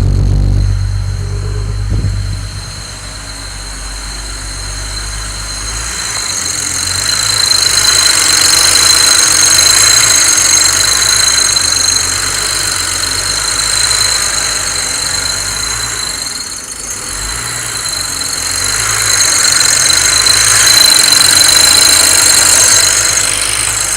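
BMW 335i's turbocharged straight-six running, with a steady high-pitched whine over a hiss that swells and fades twice: the strange noise the owner is trying to identify. A deep engine rumble is strong for the first few seconds, then drops away.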